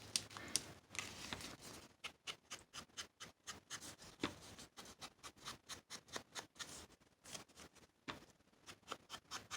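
Ink pad dabbed repeatedly against paper, a quick run of soft faint taps, several a second.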